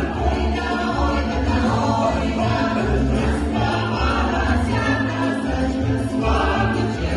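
A Cossack song ensemble singing together as a choir, voices holding sustained notes over an accompaniment with a regular pulsing bass.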